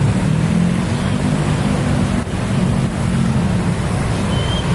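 Loud, steady rumble of vehicles passing at close range at a railway level crossing, mixed with wind noise on the microphone. A brief high squeak comes near the end.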